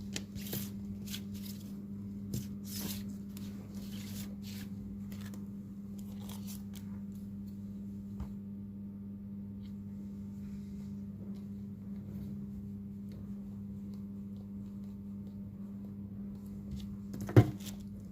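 Rustling, scraping and clicking handling noises from work on a smartphone, mostly in the first few seconds, over a steady low electrical hum; one sharp knock near the end.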